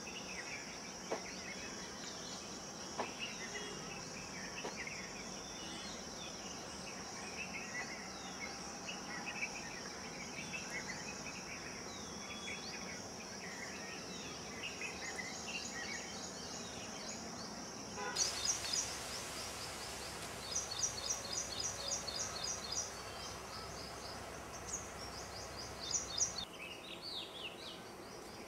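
Outdoor nature sound: many short bird chirps over a steady, high-pitched insect buzz. About two-thirds of the way in the sound changes abruptly to rapid runs of high, repeated bird notes, and it changes abruptly again near the end.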